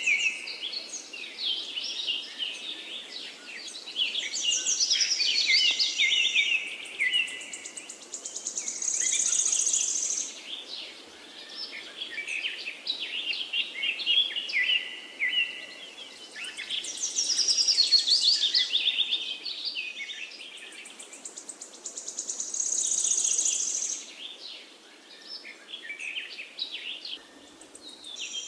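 Several songbirds chirping and trilling, with quick high notes tumbling down in pitch. A rapid, very high trill comes twice, about thirteen seconds apart, so the birdsong appears to be a repeating loop.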